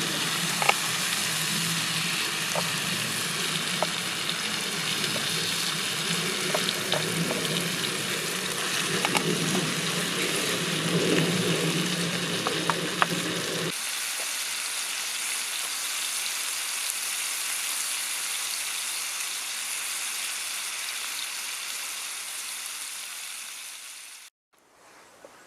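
Chicken and vegetables frying in butter in a pan over embers: a steady sizzle, with scattered clicks of stirring in the first half. The sizzle fades and cuts off shortly before the end.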